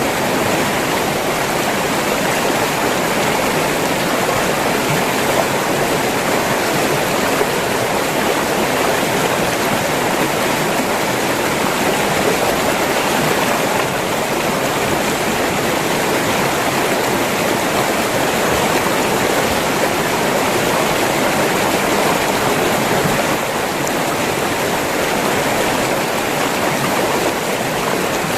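River water rushing and splashing, a steady full rush with no breaks.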